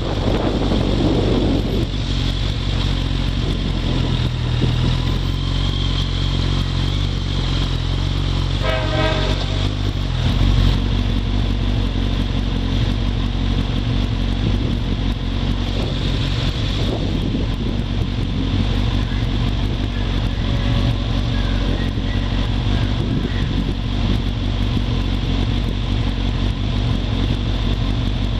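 Motorcycle engine slowing, its note falling over the first couple of seconds, then idling steadily. A brief pulsing tone sounds about nine seconds in.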